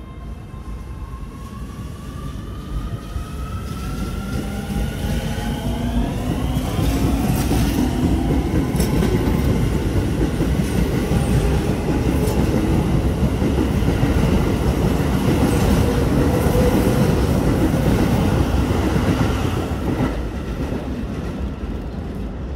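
Keio Line electric commuter train pulling out and accelerating past. Its traction motor whine rises in pitch over the first few seconds, then the cars rumble by with wheel clicks over the rail joints, easing off near the end as the last car clears.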